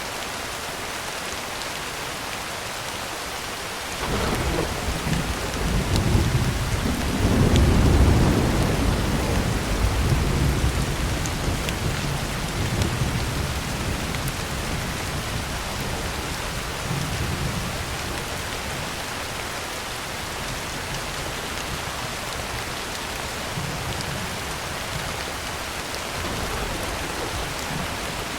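Heavy rain falling steadily on a tin roof. About four seconds in, a roll of thunder breaks in suddenly, swells to its loudest a few seconds later, then rumbles on and slowly fades under the rain.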